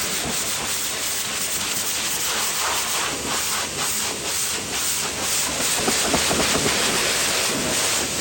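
Pressure-washer spray hissing steadily against a vehicle's body.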